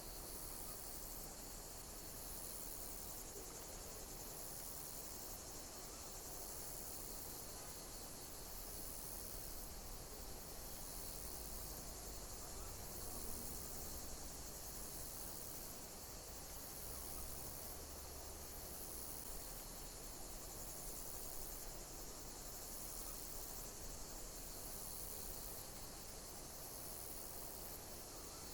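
Insects chirping: a high-pitched chirp repeating evenly about every second and a half over a steady high hiss.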